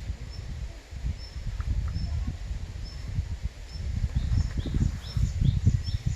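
Small birds chirping, short high notes repeated roughly once a second with a few down-slurred calls near the end, over wind gusting against the microphone as a low rumble that swells toward the end.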